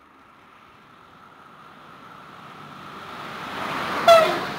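Regiolis TER multiple unit approaching on the rails, its running noise growing steadily louder as it nears. About four seconds in, just as it reaches the camera, a brief loud horn blast sounds, dropping slightly in pitch.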